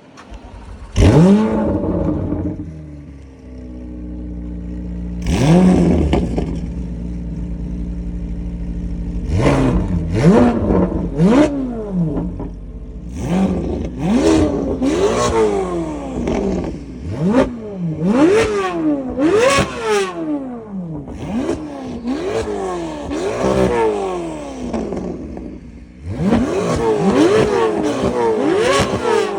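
Chevrolet Corvette V8 with an aftermarket exhaust starting up about a second in with a quick flare, settling to a steady idle, then being revved again and again in short blips, the revs coming faster from the middle on.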